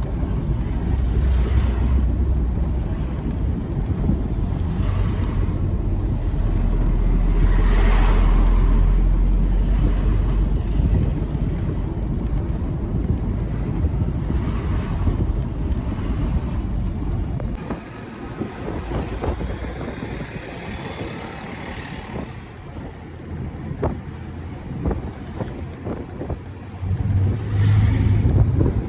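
Truck on the move: a steady low engine drone with road noise and a few louder swells, dropping to a quieter rumble with scattered clicks about two-thirds of the way through.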